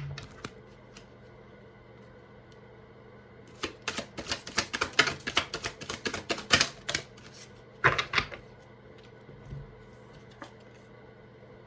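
Tarot deck being shuffled by hand: a quick run of card clicks and flutters from about three and a half to seven seconds in, then a shorter burst near eight seconds.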